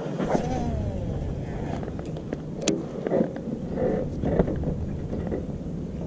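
Baitcasting reel spool whining as line pays out on a cast, its pitch falling as the spool slows. A sharp click comes about two and a half seconds in, followed by a few short irregular sounds, all over a low steady rumble.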